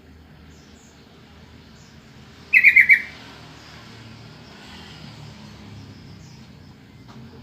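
Yellow-vented bulbul (trucukan) giving one short, loud call of four quick bubbling notes about two and a half seconds in. Faint high chirps of other small birds sound in the background.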